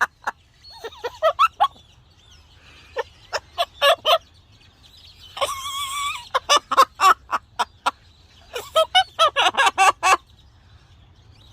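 Pet parrot calling in bursts of rapid, repeated chattering notes, with one held whistle near the middle.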